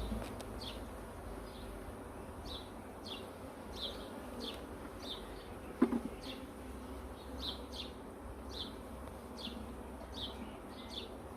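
A honeybee swarm buzzing steadily around an open hive. A short, high, downward chirp repeats about twice a second over it, and one sharp click comes about six seconds in.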